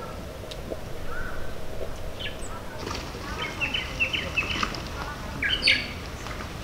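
Birds chirping: a quick run of short high notes about three to four seconds in and a louder call near the end, over a steady low background hum of outdoor noise.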